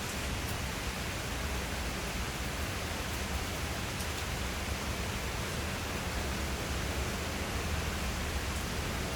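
Steady heavy rain falling, an even hiss with no break, and a few faint ticks of drops now and then.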